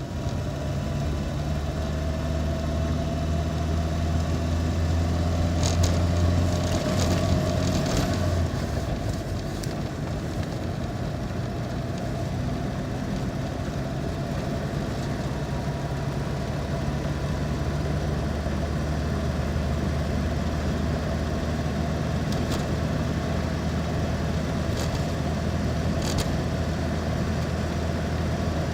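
A car's engine and road noise while it is being driven. The engine note climbs slowly over the first eight seconds, then drops and settles into a steady run, with a few faint clicks.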